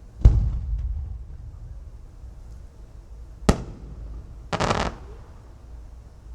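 Aerial firework shells bursting: a loud boom with a rumbling echo that dies away over about a second, then a single sharp crack about three and a half seconds in, and a brief dense crackle about a second later.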